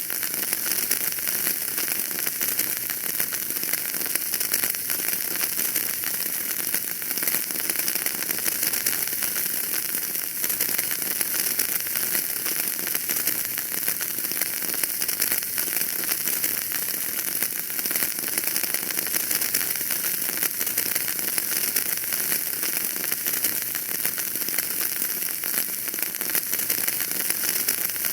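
Fire burning in a fireplace, crackling steadily with many small pops over a constant hiss.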